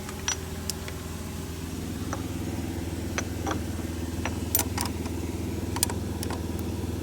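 An engine running steadily at idle, with a few scattered light metallic clicks and taps over it.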